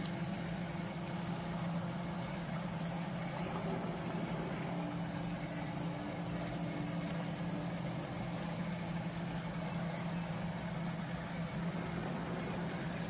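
Steady machine hum with a low droning tone, like a motor running continuously.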